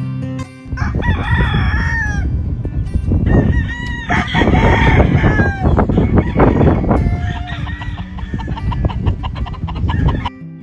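Gamefowl roosters crowing, several long crows overlapping one another, amid the general noise of a flock of chickens.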